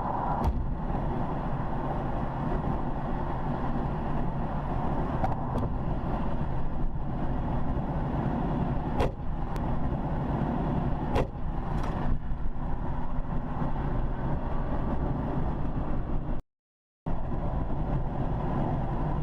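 Steady road noise of a moving car, a rumble of engine and tyres, with a few short sharp clicks. It cuts out for about half a second near the end.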